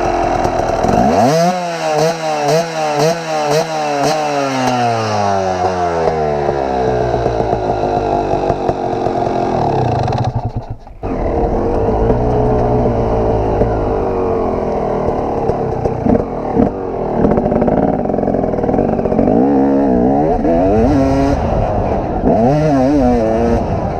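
Two-stroke dirt bike engine revving hard, its pitch climbing and dropping repeatedly as the throttle is worked while riding. It cuts out briefly about ten and a half seconds in, then runs again at varying revs.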